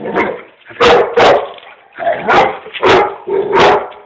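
Dog barking five times: two quick barks about a second in, then three more spaced about half a second apart.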